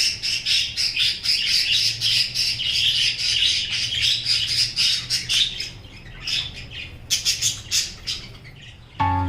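Caged parrots squawking and chirping in a rapid, continuous run of short shrill calls, which thin out to scattered calls after about five seconds. Plucked guitar music starts near the end.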